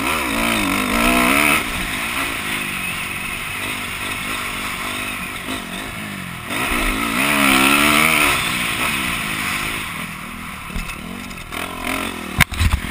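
Honda CRF250R four-stroke single-cylinder motocross engine revving up and easing off over and over under riding, with two louder bursts of throttle, one right at the start and one about halfway through. A few sharp knocks near the end.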